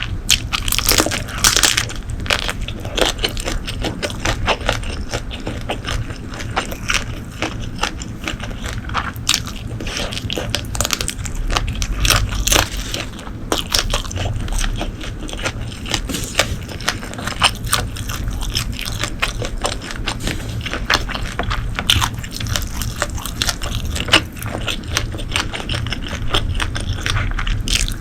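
Close-miked eating sounds: food being chewed and bitten, with many short wet clicks and crunches throughout.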